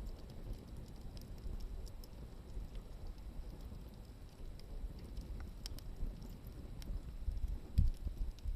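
Wood fire burning, with sparse faint crackles and pops over a steady low rumble; a dull thump near the end.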